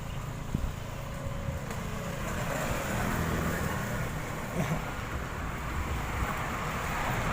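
Wind buffeting the microphone, with road and traffic noise, during a bicycle ride; the rushing grows a little louder about two seconds in.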